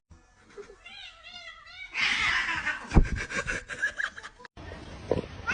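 Two cats fighting: a wavering, warbling yowl, then about two seconds in a louder, harsh screeching scuffle that cuts off suddenly.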